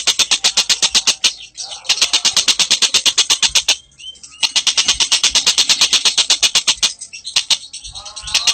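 Bird song: a fast, steady run of sharp high notes, about nine a second, broken twice by short pauses filled with softer, lower warbling notes.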